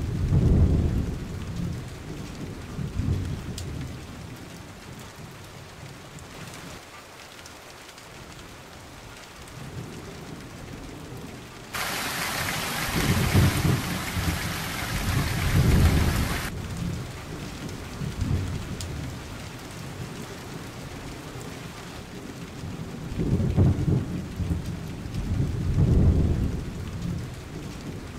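Steady rain falling, with rolling thunder rumbling low near the start, in the middle and again near the end. About twelve seconds in, a louder hiss of heavy downpour cuts in abruptly and cuts off just as suddenly about five seconds later.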